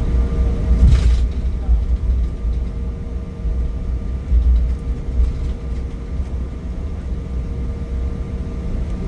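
Cabin noise inside an Embraer E175 jet: a steady low rumble with a constant engine whine from its turbofans. About a second in there is one brief rattle.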